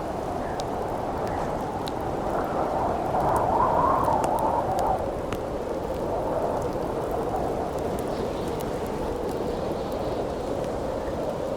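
Howling wind, swelling into a stronger gust about three to five seconds in, over the scattered crackles and pops of a wood campfire.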